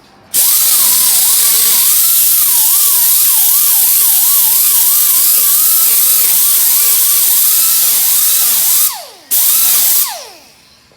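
A high-speed power tool runs with a loud hiss, its whine dipping and recovering repeatedly as it is pressed into the work. It stops about nine seconds in, runs briefly once more, then spins down with a falling whine.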